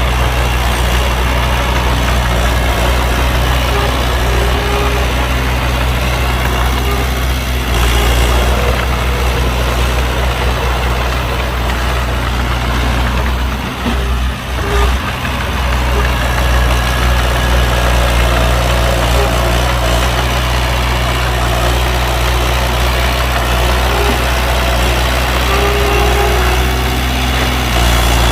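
Heavy diesel engine of earthmoving machinery running steadily, with a brief dip in level about halfway through.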